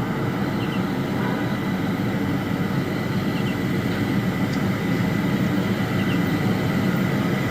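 Steady low rumbling outdoor background noise, with a faint short double chirp every two to three seconds.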